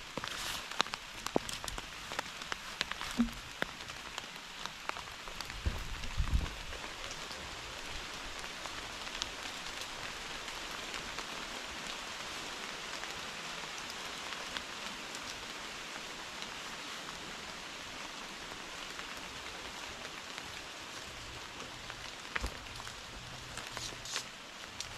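Steady heavy rain falling, an even hiss. For the first several seconds, and again near the end, separate drops land close by with sharp ticks and a few dull knocks.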